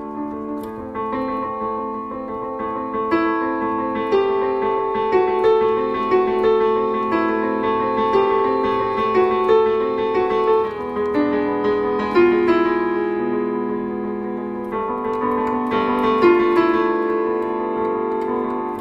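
Slow, sad piano melody played on a keyboard, single notes and chords struck one after another and left to ring.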